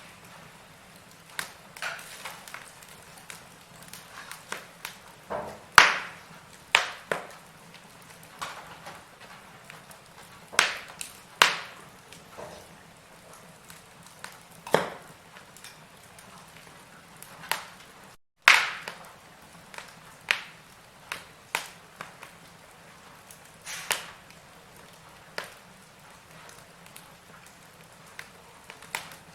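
Burning firewood crackling, with irregular sharp pops and snaps over a soft steady hiss. The loudest pops come about 6, 11 and 18 seconds in, and the sound cuts out for a split second just before the third.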